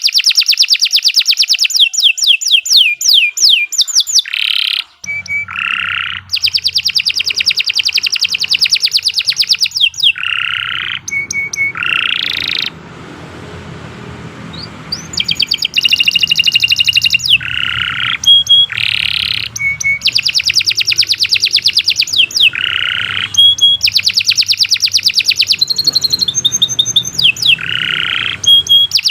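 Domestic canary singing a long, continuous song of fast repeated trills and rolls, pausing for about two seconds around the middle. A faint low hum runs underneath from about five seconds in.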